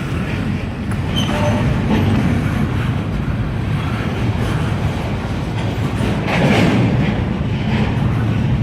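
Freight train cars, double-stack container cars among them, rolling past with a steady rumble of steel wheels on the rails and a brief faint wheel squeal about a second in.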